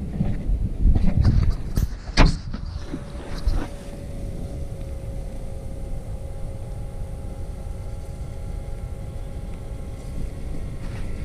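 Electric fuel pump on a Case IH MXM175 tractor running with a steady hum, priming the fuel system to bleed out air. A few knocks and a sharp click come in the first couple of seconds before the hum settles in.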